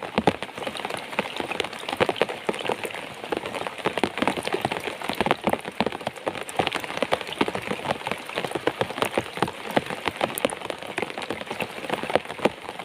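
Steady rain falling, with a dense, continuous run of sharp drop hits.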